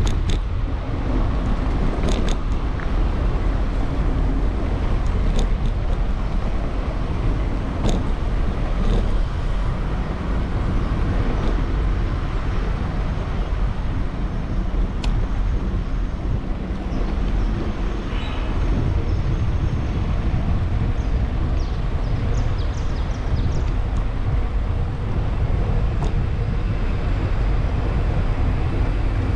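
Steady wind rush on the microphone of a moving bicycle, with city road traffic running underneath and a few sharp clicks.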